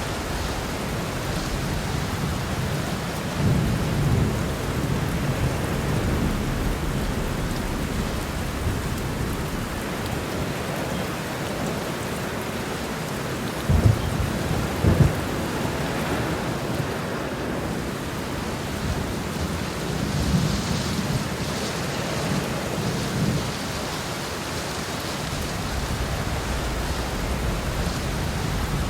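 Heavy rain pouring steadily, with thunder rumbling low beneath it; two sharp cracks of thunder come about a second apart near the middle, and further rolls swell up later.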